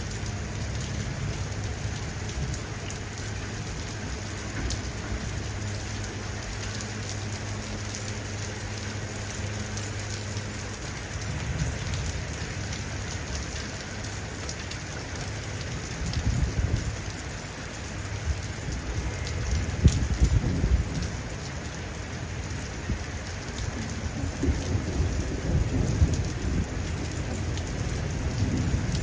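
Heavy rain falling steadily, with low rolling thunder rumbling several times through the second half. A steady low hum sounds under the rain and stops about a third of the way in.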